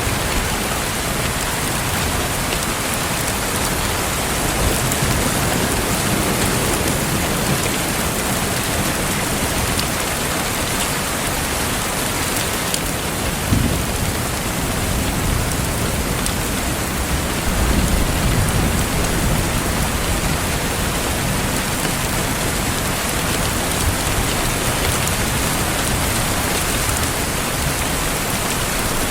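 Steady rain falling on a surface, an even hiss with no pauses. A short low thump comes about halfway through, and a low rumble swells a few seconds later.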